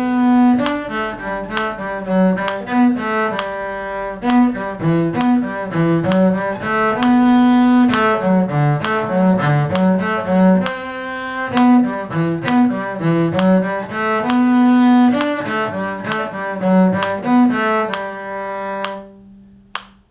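A bowed string instrument in the cello's low range plays a tune from a string-student songbook in a string of even, separate notes, and the playing stops about 19 seconds in.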